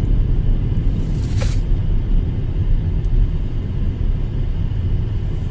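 Strong wind rumbling against the microphone, loud and steady, with a brief hissing gust about a second and a half in.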